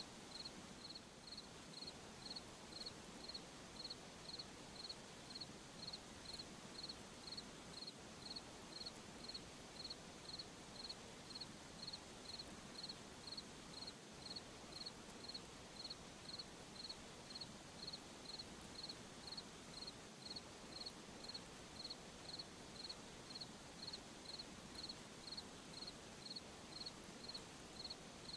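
A cricket chirping steadily at a high pitch, about one and a half chirps a second, over a faint hiss of night ambience.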